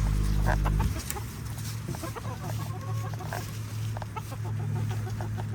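Chickens clucking around the feet with short, scattered calls. A low rumble in the first second cuts off suddenly.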